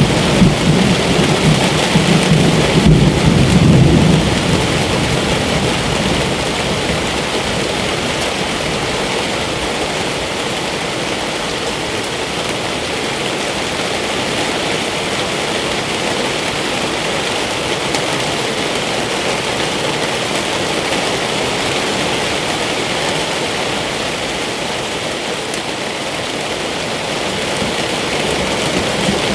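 Steady heavy rain falling. A low rumble of thunder runs through the first few seconds and dies away, leaving an even downpour.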